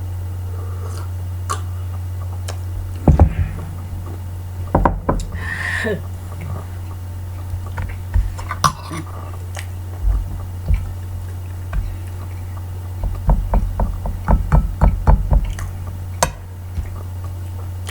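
Breakfast eating sounds: cutlery clicking and knocking against a plate, with a quick run of clicks about thirteen seconds in, over a steady low hum.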